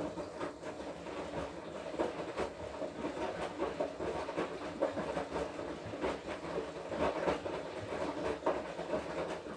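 Front-loading washing machine drum turning in the wash cycle, the wet laundry and water tumbling and sloshing with irregular knocks. It is one turn of several seconds that starts and stops abruptly, between pauses of the drum.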